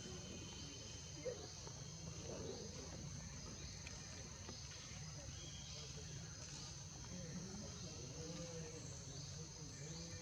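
Insects droning steadily at a high pitch, with faint short rising chirps repeating over it and a low steady hum underneath.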